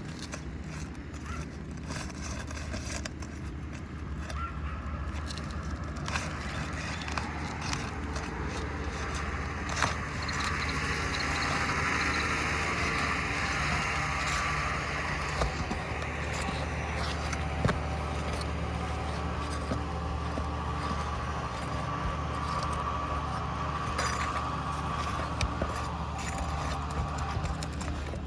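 Asphalt roof shingles being pried loose from the courses above a damaged shingle, breaking their seal: repeated scraping and rustling with scattered sharp clicks, over a steady low background hum.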